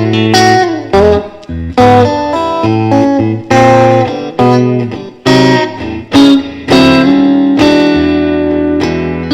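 Solo electric guitar, a Fender Stratocaster, playing an instrumental: chords and short runs struck one after another, each ringing briefly before the next, with a few sliding notes.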